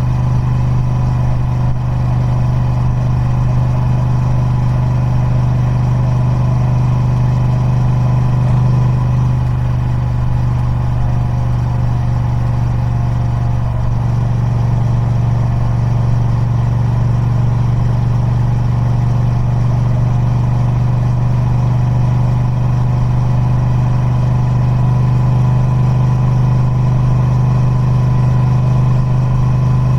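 Triumph Speed Twin 1200's parallel-twin engine running through its stock exhaust, holding a steady, unchanging note with no revving.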